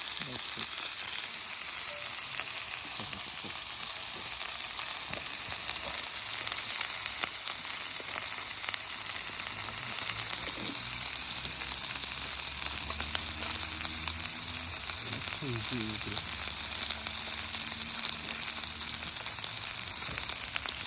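Meat sizzling on a thick 6 mm steel griddle plate: a steady frying hiss.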